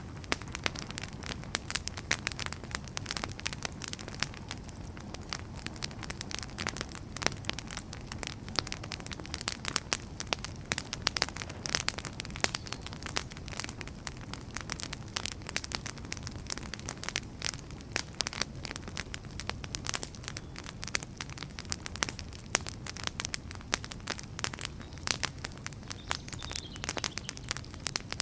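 Wood fire burning, with dense, irregular crackling and popping over a steady low rumble of the flames.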